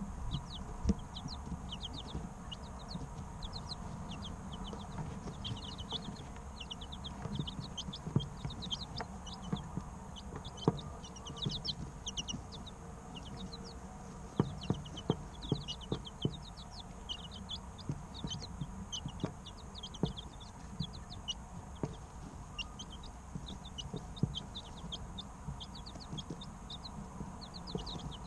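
A group of three-week-old chicks chirping without pause, many short high peeps overlapping one another. Scattered sharp taps sound among the chirps, over a low steady hum.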